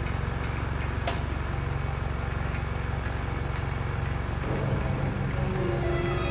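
Excavator's diesel engine running steadily with a low pulsing drone, and a single sharp click about a second in. Music comes in near the end.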